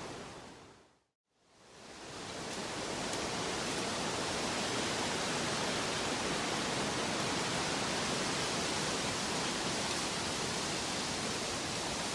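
Steady rushing noise, like a waterfall or heavy rain, spread evenly from low to high pitch. About a second in it fades out to silence and fades back in over the following second, then carries on unchanged.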